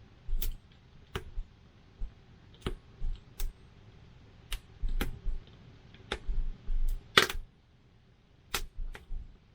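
Campfire wood crackling, with about a dozen irregular sharp pops. The loudest pop comes about seven seconds in.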